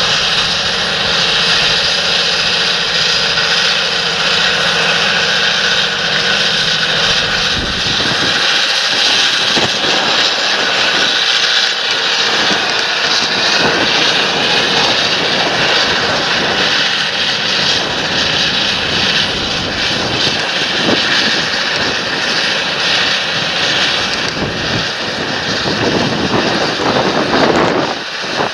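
Large John Deere tractor's diesel engine running steadily under working load, with a broad mechanical noise around it; the deep engine tone fades about eight seconds in while the noise carries on.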